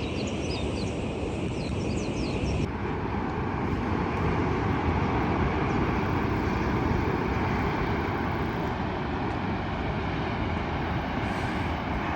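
Steady outdoor rushing noise with faint high chirps. About three seconds in it changes abruptly to a louder, fuller rushing noise that carries on steadily.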